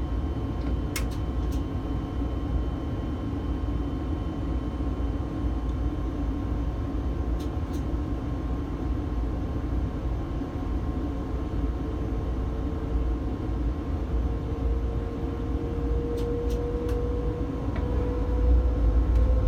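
Electric train running, heard from inside the driver's cab: a steady low rumble, with a whine that rises slowly in pitch from about halfway and a few light clicks.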